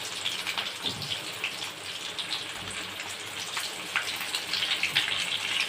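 Chicken pakoras deep-frying in hot oil: a steady sizzle with scattered crackles and pops. This is the second fry of the half-fried pieces, done to crisp them.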